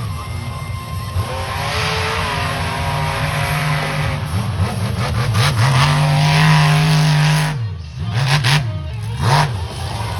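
Monster truck engine running at high revs for several seconds, dropping off briefly, then blipped up and down in a few quick revs near the end.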